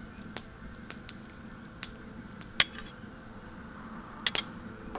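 Metal utensil clinking against cookware and plate while the fish is dished up: a few separate sharp clinks, the loudest about two and a half seconds in, and a quick double clink near the end.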